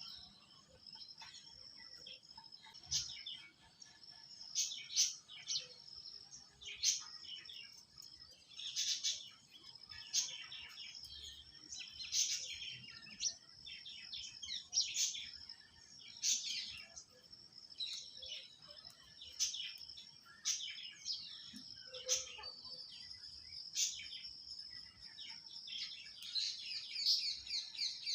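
Birds chirping in short, sharp high calls, a burst every second or two, over a faint steady high-pitched tone.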